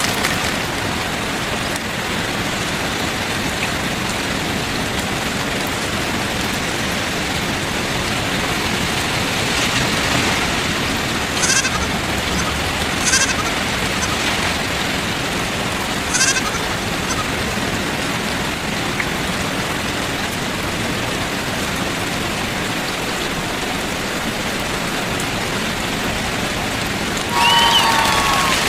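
Steady rain-like hiss of falling or running water. Three brief, sharp high sounds come near the middle, and a pitched, gliding sound starts just before the end.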